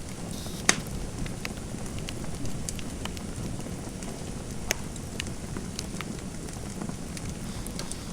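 Wood fire in a fireplace crackling: a steady low rumble with scattered sharp pops and ticks, two of them louder, about a second in and near the middle.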